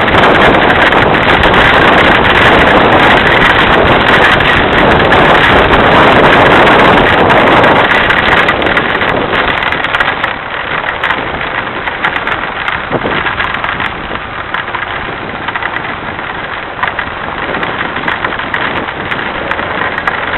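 Heavy rain pouring down in a steady hiss, easing to a lighter fall about halfway through.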